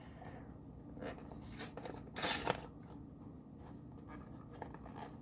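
Quiet handling noises with faint rustles and a brief scratchy rustle about two seconds in.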